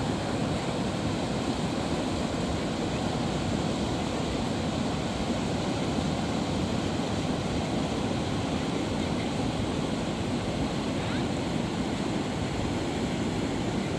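Fast-flowing mountain river rushing steadily, a constant even roar of water.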